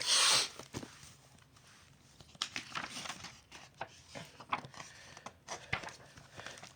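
Paper pages of a picture book being handled and turned: a loud rustle of paper right at the start, then lighter rustling and small scattered clicks.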